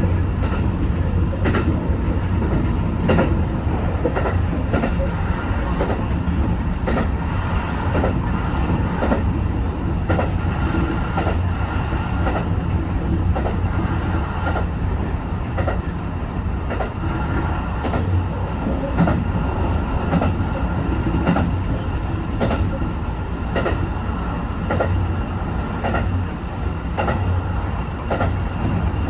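HB-E210 series hybrid diesel railcar running at speed, with a steady low drone and a few steady higher tones. The wheels click regularly over rail joints, about one or two clicks a second.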